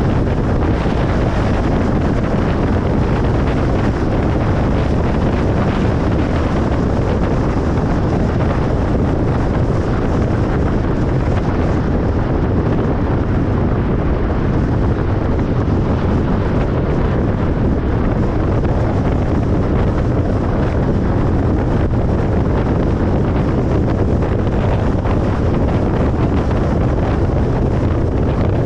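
Steady road noise of a car driving on a highway: a constant low rumble of tyres and wind that does not change.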